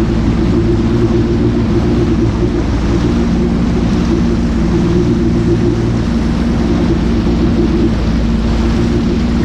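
Jet ski engine running steadily at speed: a loud, even drone under a constant rushing noise.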